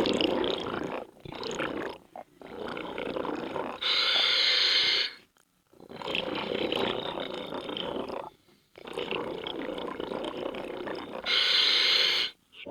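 Scuba diver breathing through a regulator underwater: two short hissing inhalations, each followed by longer spells of bubbling, gurgling exhalation. Brief silences fall between breaths.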